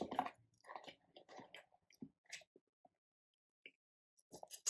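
A person chewing a bite of flat-shell chicken taco with her mouth closed: soft, scattered mouth sounds close to the microphone, mostly in the first half, then a pause. There is a brief louder noise at the very end.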